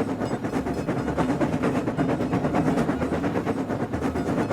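Train running along the track: a steady rumble with an even, rapid rhythmic clatter.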